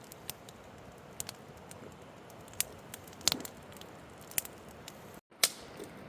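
Campfire of freshly gathered wood burning, with sharp irregular crackles and pops every second or so over a soft steady hiss.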